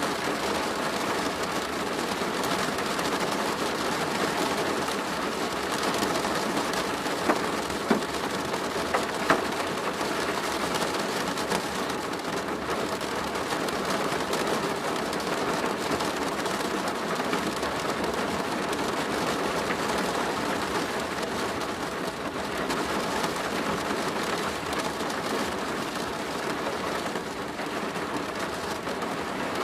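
Steady rain falling on a plastic roof, a dense patter of drops throughout, with three louder single hits about seven to nine seconds in.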